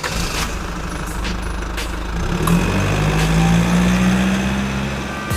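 Engine running with a steady low hum that grows louder and slightly higher in pitch about halfway through, then settles back.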